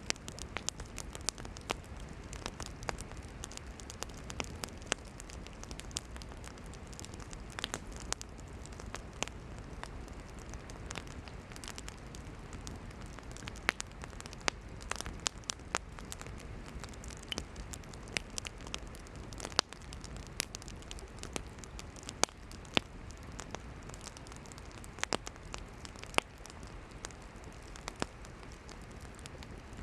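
Campfire of burning firewood crackling: a steady hiss of flame with frequent, irregular sharp pops and snaps.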